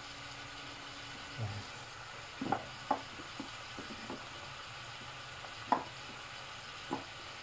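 Pechay and tomatoes sizzling steadily in a hot pan, with a cooking utensil knocking against the pan a few times, loudest about six seconds in.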